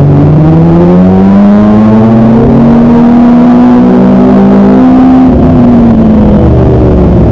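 Kawasaki ZX-25R's 250 cc inline-four engine running loud under throttle, its pitch climbing over about three seconds, holding, then dropping back near the end.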